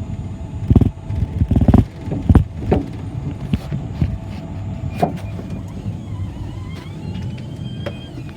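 City bus ride noise: a steady low engine rumble, with several loud knocks and rattles in the first three seconds and a faint high squeal near the end.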